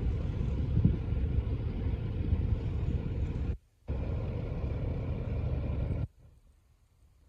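Squid-fishing boat's engine running with a steady low drone. The sound breaks off briefly a little after three seconds in, then cuts off abruptly about six seconds in.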